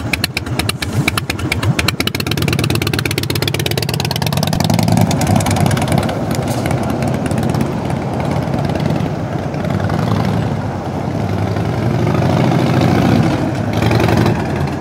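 Harley-Davidson Evolution 1340 V-twin of a 1996 FLSTN Heritage Special, running with a pulsing idle beat for the first couple of seconds, then revved up and let back down several times.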